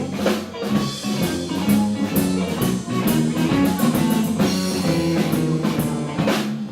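Live blues-rock band playing, with guitar and drum kit.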